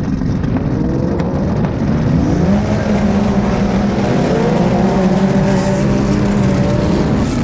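Off-road racing vehicle engine running hard under throttle, its pitch climbing about two seconds in and then holding high and steady.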